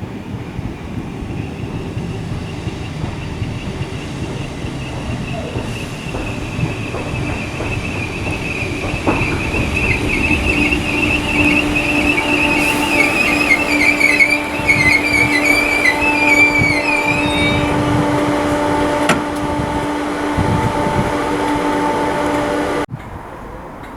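Merseyrail PEP electric multiple unit running at the platform, growing louder, with a high wavering wheel squeal that dies away about three-quarters through and a steady electric hum underneath. The sound cuts off abruptly near the end.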